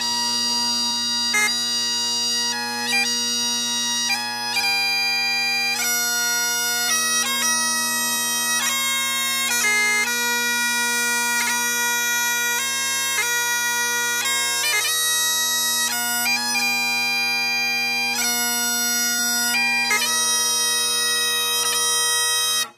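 Great Highland bagpipe playing a tune over its steady drones, the melody stepping from note to note with quick grace notes, then stopping abruptly.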